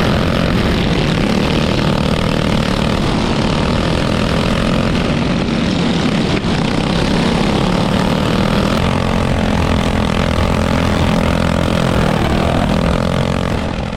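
Small single-cylinder go-kart engines running at a steady, high speed with a continuous drone.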